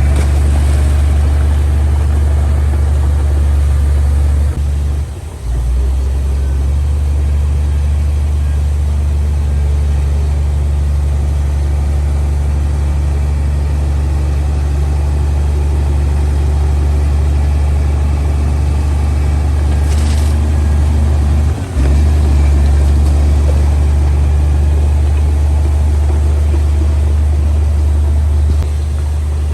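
Komatsu D58P bulldozer's diesel engine running with a steady low drone. The sound dips briefly about five seconds in and again just past twenty-one seconds.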